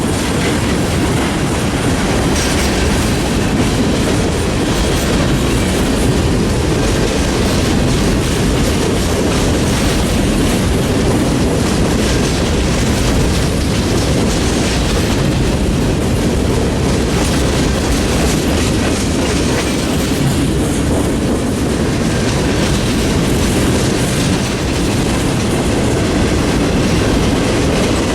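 Freight train cars rolling past on the track: a loud, steady sound of steel wheels on rail that keeps on without a break.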